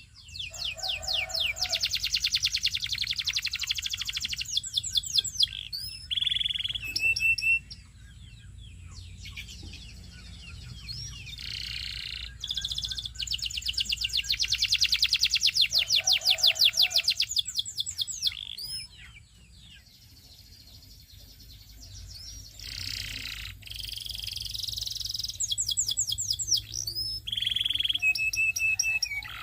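Belgian singing canary singing long phrases of rapid trills, each made of fast repeated high notes, broken by short pauses and a few single whistled notes.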